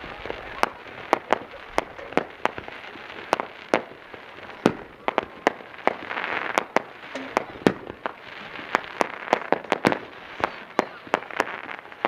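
Fireworks show: a rapid, irregular run of sharp bangs from shells bursting, several a second at times, with a crackling hiss between them.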